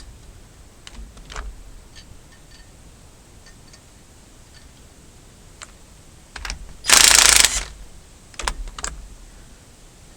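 Scattered light mechanical clicks and clinks, with one loud, harsh burst lasting under a second about seven seconds in, followed by a few sharper clicks.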